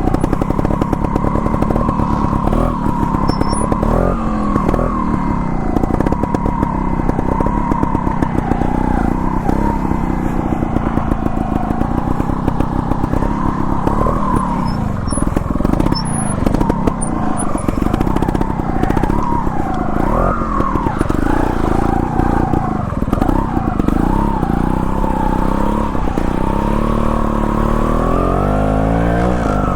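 GasGas TXT 280 Pro trials bike's single-cylinder two-stroke engine running under throttle, the revs rising and falling over and over, with a longer rise in revs near the end.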